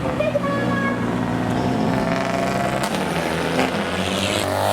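Modified car engine with a loud exhaust running at a steady idle.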